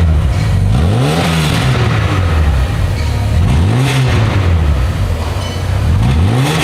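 Mk3 Volkswagen Golf estate's engine running through its newly fitted exhaust: a steady low exhaust note with the revs rising and falling three times, about two and a half seconds apart.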